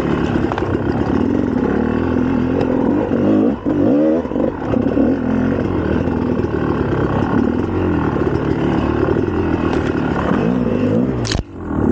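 2004 GasGas EC300 two-stroke single-cylinder dirt bike engine under way, revving up and down repeatedly as the throttle is worked. The engine note briefly drops away near the end before picking up again.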